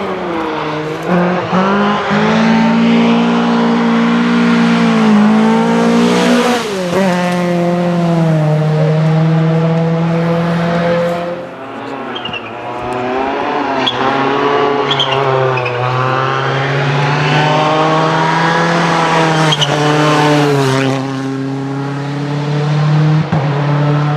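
Rally cars driven hard on a special stage, engines revving high and falling back repeatedly through gear changes and lifts. The engine sound dips briefly about halfway before building again.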